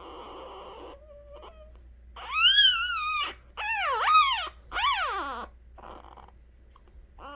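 A newborn puppy crying: three loud, high-pitched whimpering cries a couple of seconds in, each rising and then falling in pitch, after a few faint squeaks.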